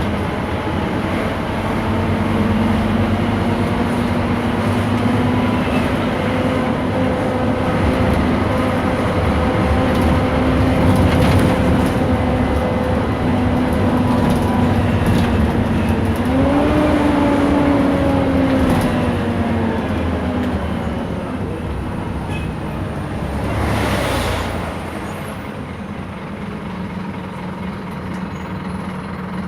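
Scania K230 IB city bus under way: engine and ZF automatic transmission running with a steady whine, which jumps up in pitch about two-thirds of the way through and then slowly glides down. A short hiss near the end, after which the bus runs quieter.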